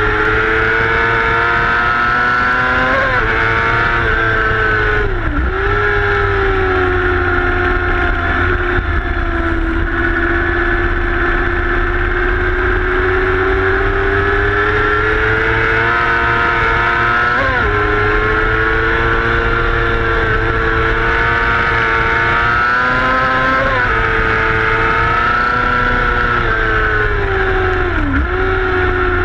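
Middleweight racing motorcycle engine running hard on track, heard from on board, its pitch climbing and falling through the corners with several sharp dips and jumps at gear changes. A steady low rumble of wind on the microphone lies underneath.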